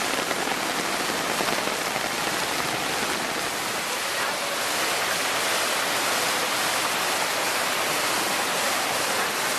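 Steady, even rushing noise of water, like heavy rain or a torrent, with no distinct impacts.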